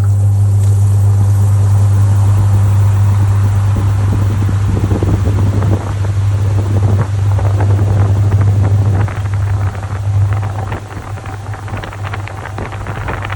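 Top-loading washing machine running: a steady low motor hum with water and laundry churning in the tub. The churning grows uneven partway through, and the sound drops in loudness about ten seconds in.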